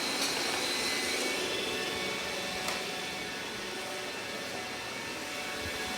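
Robot vacuum running: the steady whir of its suction fan and brushes with a faint high whine, a single click a little before halfway, and the level dipping slightly in the second half.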